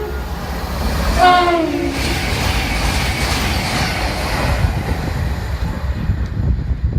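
A CrossCountry train sounding its two-tone horn as it passes through the station, with a short blast about a second in that drops in pitch. The rush and low rumble of the train going by follow.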